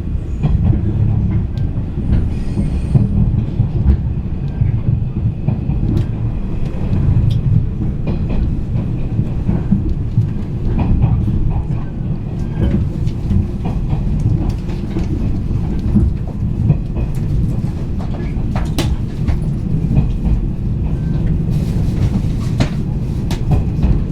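JR East 485-series electric limited express heard from inside the car as it runs into its terminal station: a steady low rumble with scattered clicks of the wheels over rail joints and points.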